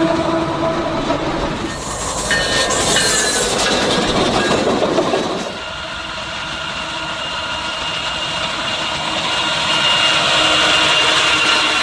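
A freight train rolling along the track, with its railroad cars and wheels running noisily over the rails. About halfway through the sound drops suddenly, then builds again with a thin, steady high squeal from the wheels on the rail.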